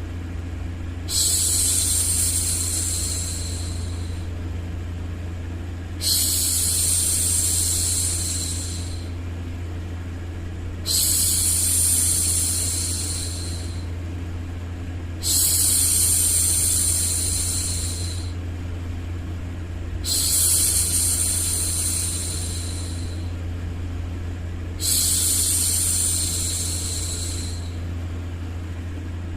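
A woman's voice shushing "shhh", six long shushes about five seconds apart, each starting suddenly and tailing off, over a steady low hum.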